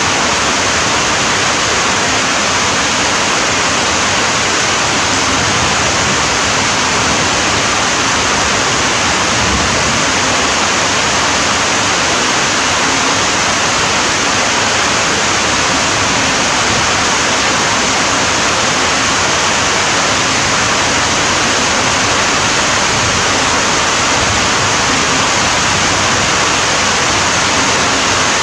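Heavy rain falling: a steady, dense hiss with no drops or patters standing out, unchanging throughout.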